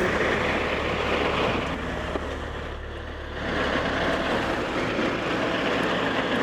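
A vehicle engine running steadily under a rushing noise of wind on the microphone. The noise eases for about a second in the middle, then comes back up.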